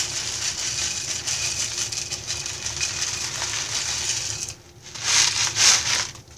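Dry instant rice rattling steadily as it is scooped and poured into a mylar bag, then a brief, louder rustle near the end.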